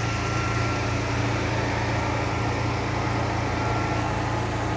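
Steady low mechanical hum of a running machine, even and unchanging, with a faint high tone above it.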